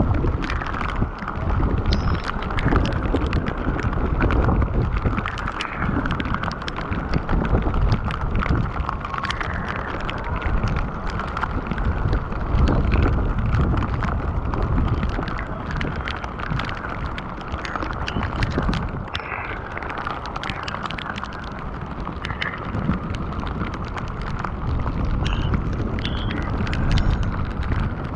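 Heavy rain falling steadily, with many fine drop impacts crackling, while gusting wind buffets the microphone in a fluctuating low rumble.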